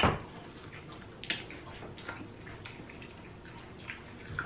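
Wet, clicky eating sounds: chewing and lip-smacking, with shrimp being peeled by hand, heard as scattered soft clicks every second or so.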